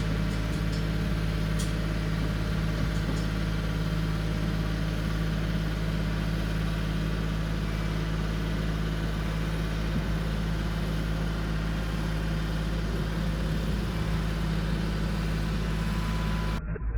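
Tractor engine running steadily at constant speed, a loud even drone.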